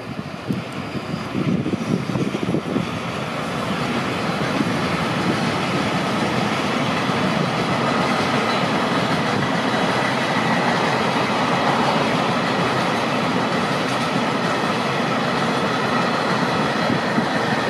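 Freight train of Taki tank wagons hauled by an EH500 electric locomotive rolling past, its wheels on the rails making a steady noise that grows louder about four seconds in and holds as the long line of tank cars goes by. Gusts of wind rumble on the microphone in the first few seconds.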